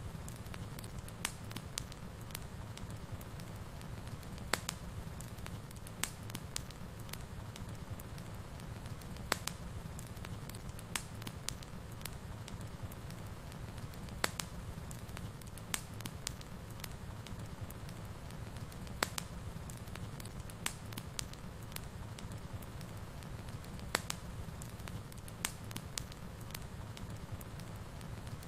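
Wood fire burning in a fireplace: a steady low rumble of the flames with sharp, irregular crackles and pops of the burning wood, a few every couple of seconds.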